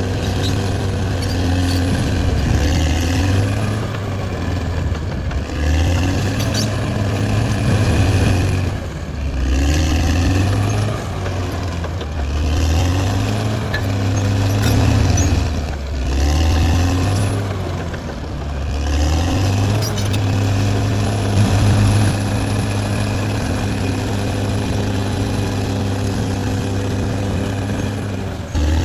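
Caterpillar D6R XL bulldozer's diesel engine working under load, its note swelling and easing every two to three seconds as the blade pushes, with a rising and falling whine and scattered clanks.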